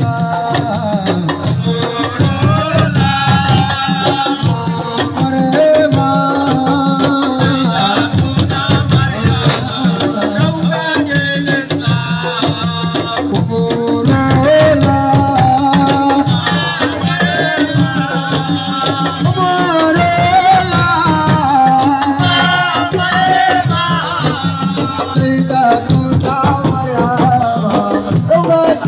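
Live assiko band music: a voice singing a wavering melody over a dense, steady percussion beat with a rattle.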